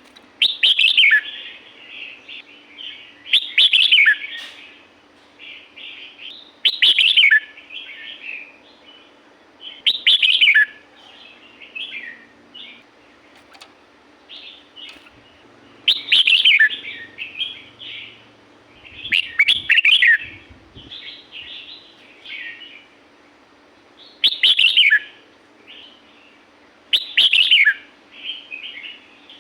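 Red-whiskered bulbul singing: a loud short phrase about every three seconds, each opening with a quick falling note, with softer chattering notes in between.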